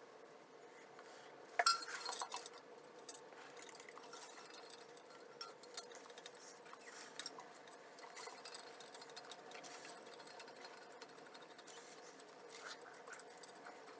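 Faint clinks and taps of metal hardware against the toilet's porcelain base as the hold-down bolts and nuts are fitted by hand, with one sharper clink about a second and a half in.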